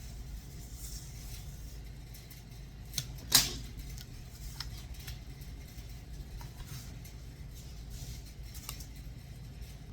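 A few sharp clicks and knocks over a steady low hum: one click about three seconds in, then a louder knock straight after, with fainter ticks later.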